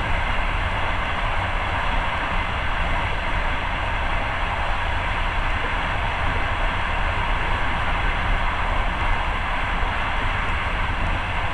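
Passenger train running along the track, heard from inside the carriage: a steady, even noise of wheels and carriage.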